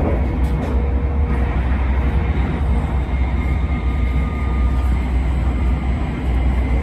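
Steady low rumble of a Tohoku Shinkansen train running at speed, heard inside the passenger cabin.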